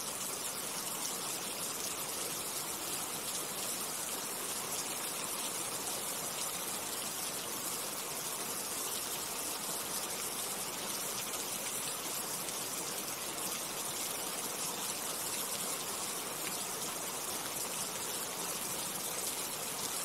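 Steady rain: an even hiss of falling water that holds without break or change.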